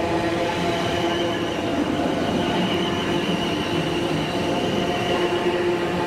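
Passenger train running at the platform: a steady rumble of wheels on rail with a high whine held throughout.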